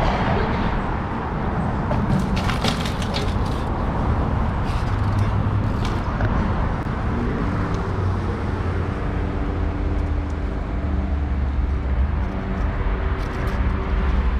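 Wind buffeting an action camera's microphone with crackling handling noise, joined about halfway through by a low steady drone.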